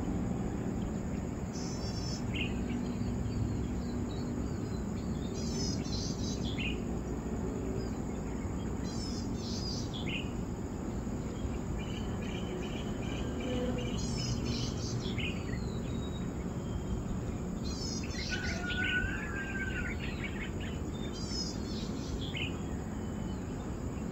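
Birds chirping in short bursts of quick notes every few seconds, over a steady high-pitched insect drone and a constant low background rumble.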